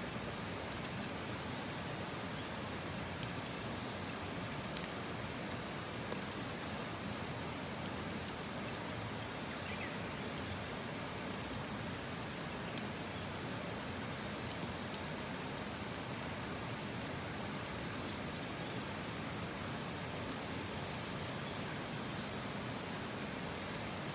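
Wood campfire burning: a steady hiss with a few sharp pops and crackles scattered through it.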